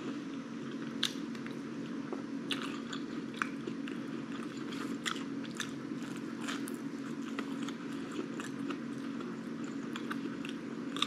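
Close-up mouth sounds of a person biting into and chewing a homemade pizza puff bite: irregular wet clicks and small crunches, over a steady low hum.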